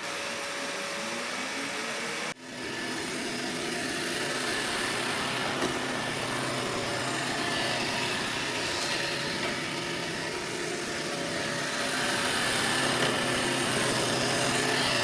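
Robot vacuum cleaner running: a steady motor whir with a constant whine, with a brief break about two seconds in.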